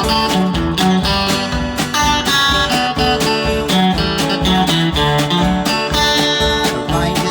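Country band playing an instrumental intro led by strummed acoustic guitar, with low bass notes on a steady beat and a melody line moving over it.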